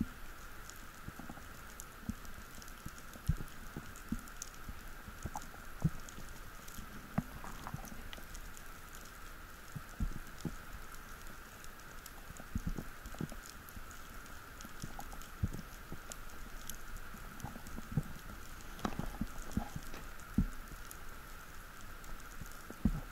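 Underwater ambience on a diver's camera: scattered irregular clicks and crackles over a steady faint hiss, with an occasional dull knock.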